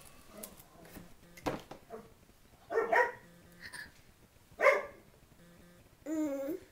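A dog barking: two short barks about two seconds apart, then a longer wavering call near the end.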